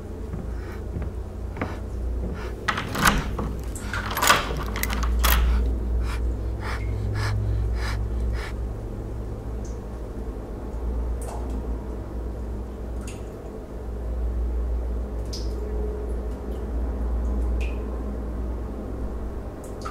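A low, steady drone with sharp knocks and clicks over it, thick in the first eight seconds and loudest about three and four seconds in, then only a few scattered clicks.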